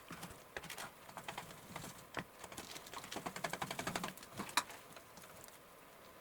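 A run of light, quick clicks and taps, fastest about three to four seconds in, with one sharper click near the end.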